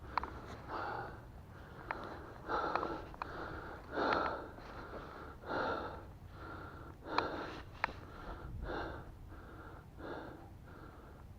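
A man breathing hard close to the microphone, a run of gasping breaths in and out that come in uneven swells, with a few small sharp clicks in between.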